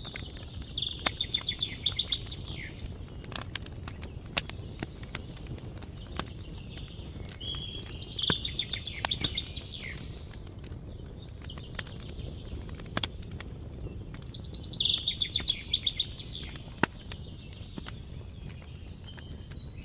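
Outdoor wood campfire crackling with scattered sharp pops over a low steady rumble. A songbird sings three short trilled phrases about six or seven seconds apart, with a fainter fourth starting near the end.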